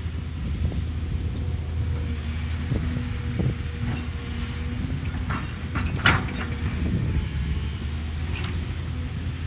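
Diesel excavator engine running steadily, with a few sharp metallic clanks from the working machine around the middle and once near the end.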